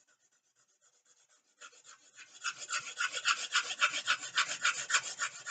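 Rapid back-and-forth shading strokes of a drawing tool on paper, about five a second, starting about two seconds in and growing louder.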